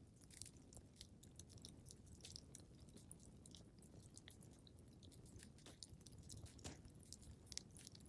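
Quiet wood fire crackling in a fireplace: irregular sharp pops and snaps, several a second, over a low steady rumble of flame.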